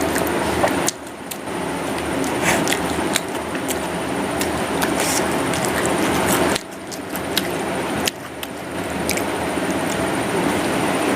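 Close-miked chewing and crunching of a vada pav (deep-fried potato fritter in a soft bun), with many small crisp clicks from the fried crust. The level drops sharply twice, about a second in and about six and a half seconds in.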